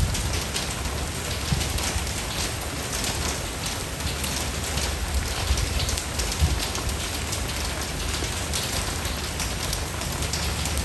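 Steady rain falling on a surface: a dense, even hiss full of small drop hits, with a low steady rumble underneath and a couple of louder drips.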